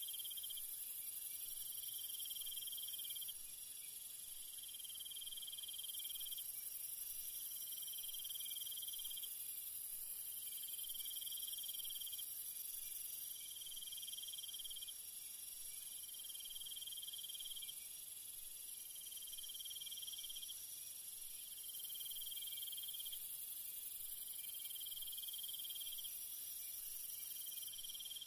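Insect chorus: a steady high-pitched drone, with a cricket-like trill that pulses on and off about every two seconds.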